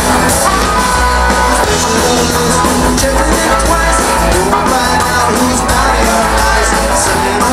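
Loud live rock band music, with a heavy bass and drum beat under a pitched lead line.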